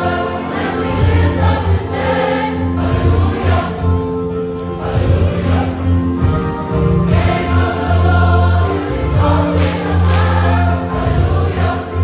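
Church choir singing a hymn in long held chords, over a steady low bass.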